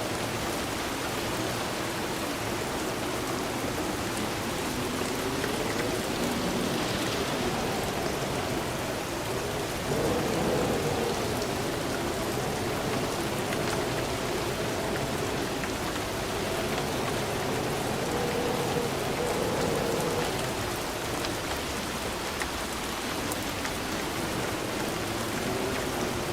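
Steady rain falling, an even hiss that swells slightly about ten seconds in.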